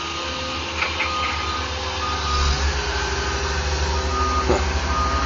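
A paving-crew vehicle's reversing alarm beeping about once a second over the steady rumble of heavy engines.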